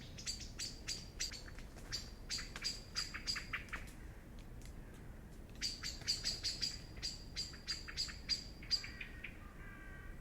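Songbirds calling: quick runs of short, sharp chirps at about four a second, breaking off about four seconds in and starting again, with a lower warbling call near the end.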